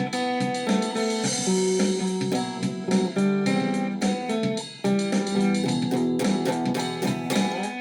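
Guitar music: plucked and strummed notes carrying a melody over chords, with a short drop in loudness a little before the five-second mark.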